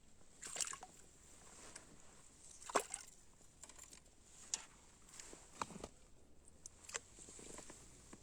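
A handful of brief knocks and clicks, spaced a second or two apart, the loudest about three seconds in, with faint water sloshing: the handling noises of an angler fishing for roach.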